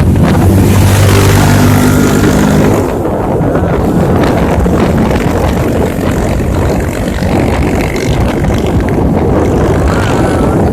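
Strong wind buffeting the microphone, a loud, dense rumble. For roughly the first three seconds a steady motor-like hum runs beneath it, then stops.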